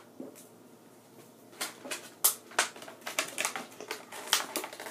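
Plastic and cardboard toy packaging handled as a doll is taken out of its box: quiet at first, then a quick run of sharp clicks and crackles from about a second and a half in.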